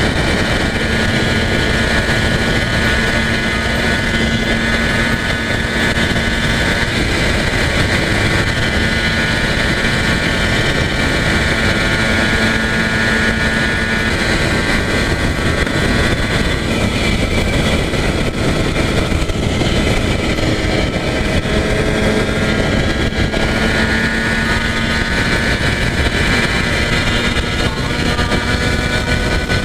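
Yamaha TZR250 1KT's two-stroke parallel-twin engine pulling at steady highway cruising speed, under heavy wind and road noise. The engine pitch sags a little past the middle and climbs again toward the end.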